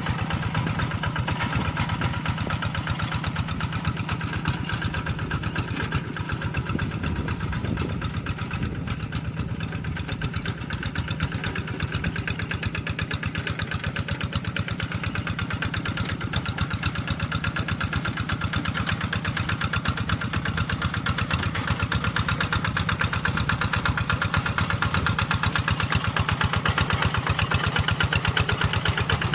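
Tractor engine running steadily with a rapid, even chugging beat, growing a little louder near the end.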